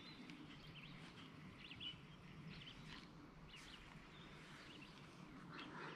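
Near silence: faint scattered bird chirps over quiet outdoor ambience.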